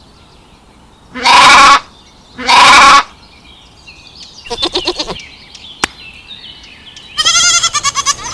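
Goat bleating: two loud, wavering bleats of about half a second each, followed by softer chirping and another wavering call near the end.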